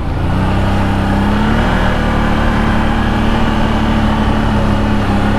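CFMoto CFORCE 1000 Overland ATV's V-twin engine running steadily at low throttle while riding. Its pitch lifts a little about half a second in and then holds.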